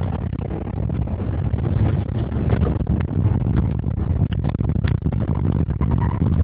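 Porsche Cayenne Turbo's turbocharged V8 running under way, a steady low rumble mixed with road and wind noise, with a few brief clicks.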